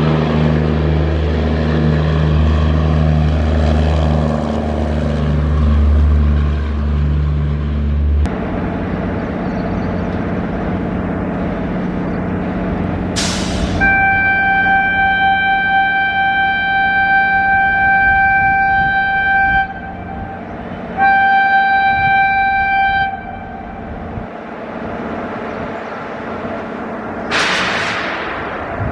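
Indian Railways train passing with a steady rumble, its locomotive horn sounding one long blast of about six seconds, then a shorter blast of about two seconds, and starting again at the very end. Before the horn, a deep steady hum cuts off abruptly a third of the way in.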